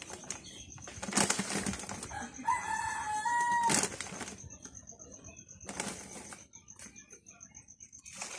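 A bird call lasting just over a second, about two and a half seconds in, among several short bursts of rustling noise.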